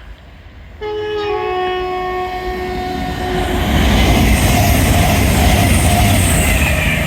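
Train sounding its two-tone horn about a second in: the higher note drops out quickly and the lower note is held for a couple of seconds. The train then rushes past at speed, the noise building to its loudest near the end.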